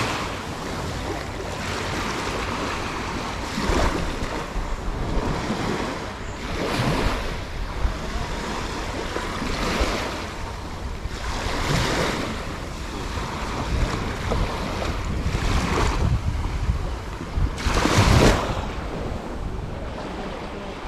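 Small sea waves breaking and washing up on a beach, a surge every few seconds, with wind rumbling on the microphone.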